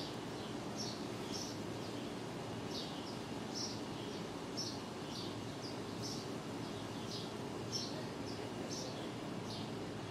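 A small bird chirping over and over, short high downward-sliding chirps about twice a second, over a steady background hiss.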